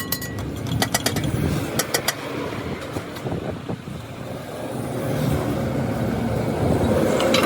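A run of sharp knocks in the first two seconds, then the low rumble of a running engine that grows louder through the second half.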